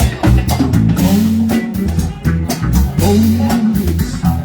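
Live band playing an instrumental passage: electric guitar, bass guitar and drum kit with a steady beat.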